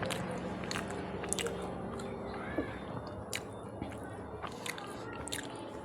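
Close-up sound of a person chewing food, with sharp wet mouth clicks and smacks at irregular intervals.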